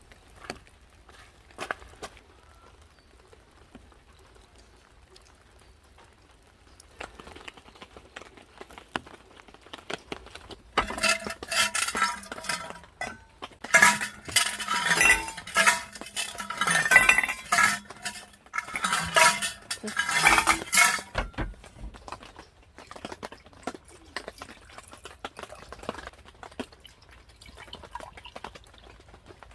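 Dishes, pots and cutlery clinking and clattering as they are handled and stacked, with scattered knocks at first and then a busy run of clatter with some ringing for about ten seconds in the middle.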